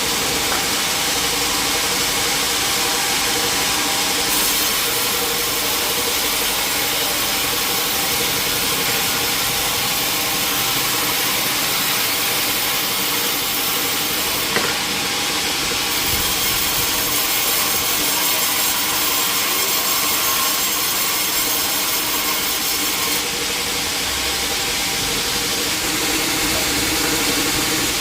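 A large sawmill saw cutting steadily through a log, a continuous cutting noise with a steady machine tone underneath.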